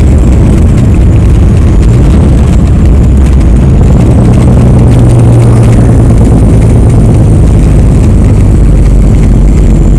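A loud, steady low drone from a heavy vehicle's engine running, strongest around the middle.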